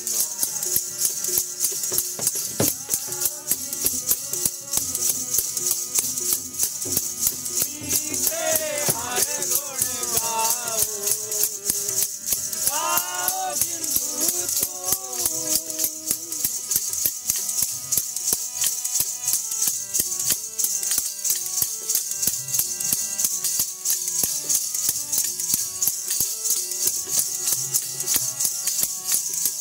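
Sikh kirtan music: a fast, steady jingling percussion beat keeps time throughout, with a singing voice wavering over it from about eight seconds in until about sixteen seconds.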